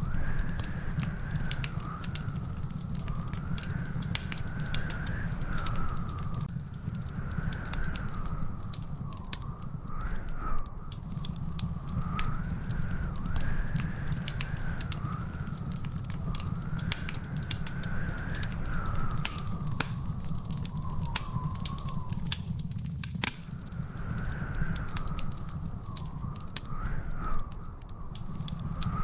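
Wood fire crackling in a fireplace: many quick pops and snaps over a steady low rumble. A high, wavering whistle rises and falls every few seconds throughout.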